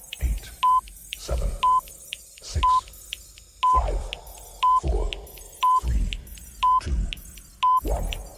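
Electronic countdown beeps: a short beep of one steady pitch sounds once a second, each with a low thud beneath it.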